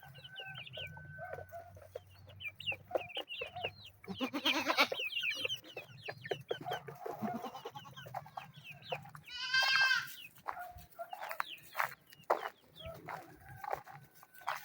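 Chicks peeping over and over in short, high, falling chirps, mixed with clucking chickens. Two longer calls stand out, one about four seconds in and a louder one near ten seconds.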